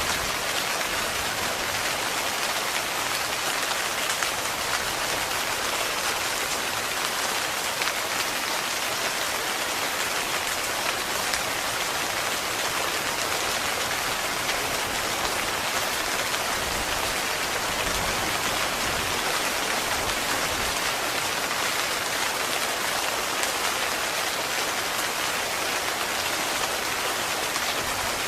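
Heavy rain pattering steadily on a tent, a dense even hiss of drops with no let-up.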